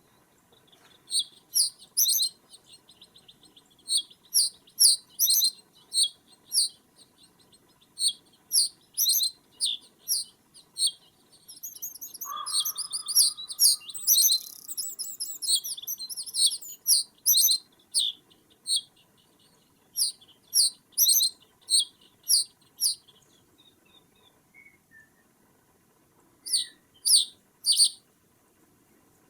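Small songbirds calling: short, sharp, high-pitched chirps repeated in quick clusters, with a denser twittering run around the middle and a brief lull near the end.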